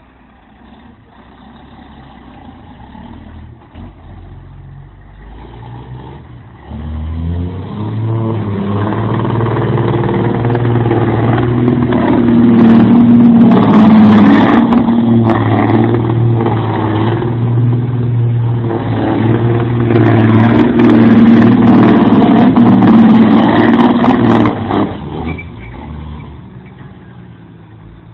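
Heavy truck engine working hard: it builds up, runs loud and steady for a long stretch, then drops away near the end.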